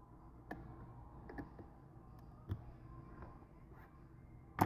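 Small repair tools clicking and tapping against the opened iPad mini 3: a few faint, scattered clicks, with a sharper one at the very end.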